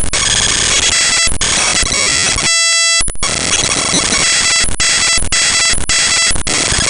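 Raw bytes of the Windows type-library file mshtml.tlb played directly as audio: loud, harsh digital noise with steady buzzing tones running through it, broken by a few brief dropouts. About two and a half seconds in, the noise gives way to a clean buzzy beep for half a second.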